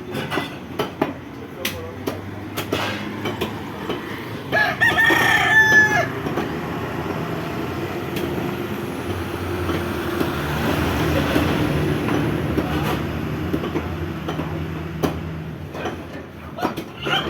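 A rooster crowing once, about five seconds in, for about a second and a half. A steady low rumble fills much of the rest, with scattered clicks at the start and near the end.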